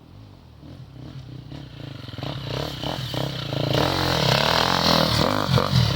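Enduro motorcycle approaching, its engine revving up and down as the rider works the throttle, growing steadily louder until it is close near the end.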